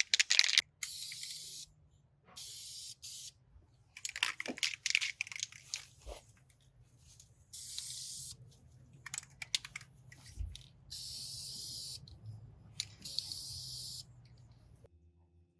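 Short bursts of pressurised spray hissing, about six of them, each lasting half a second to a second. Between the bursts come stretches of scraping and small clicks from parts being worked on.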